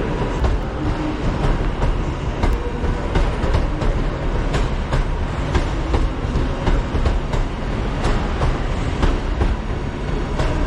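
Class 323 electric multiple unit running past as it departs: a steady rumble with its wheels clicking over rail joints and pointwork, several clicks a second.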